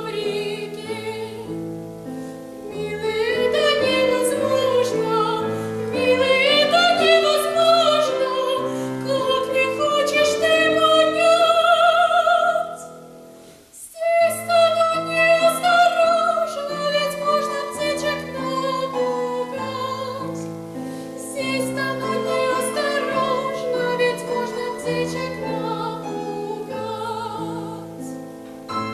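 A female classical singer sings with a wide vibrato in an operatic style, accompanied by piano chords. Just under halfway through there is a brief pause, and then the singing and piano resume.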